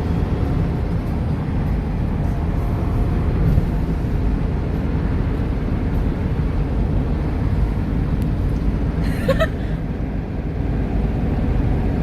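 Road noise inside a moving car: a steady low rumble of engine and tyres, with one brief high squeak about nine seconds in.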